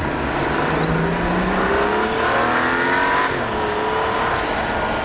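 BMW 335i's stock N55 turbocharged straight-six under acceleration: the revs climb steadily for about two seconds, then drop suddenly just past three seconds in. A faint high whistle falls away near the end.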